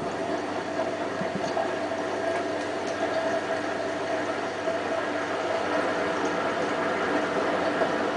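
Hotpoint WT960 washing machine running: a steady hum with water rushing through it.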